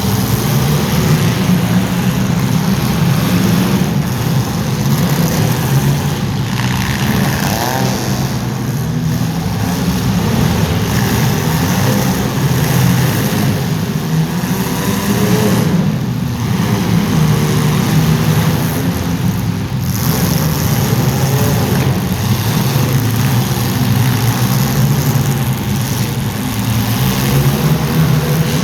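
Several compact cars' engines running and revving hard without letup during a demolition derby heat.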